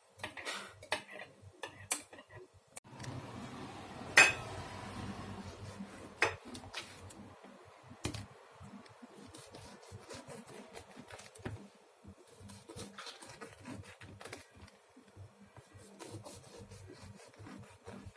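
Dishes and utensils being handled in a kitchen: scattered clinks and knocks. A few seconds in comes a stretch of rubbing with two sharp clacks, then many soft taps and scrapes.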